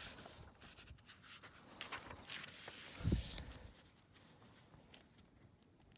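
Paper rustling and rubbing as a picture book's page is handled and turned, with a soft thump about three seconds in.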